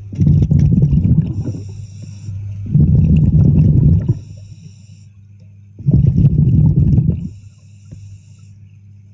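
Diver breathing through an underwater regulator: three loud bursts of exhaled bubbles about every three seconds, with a thin high hiss of inhalation between them and a steady low hum underneath.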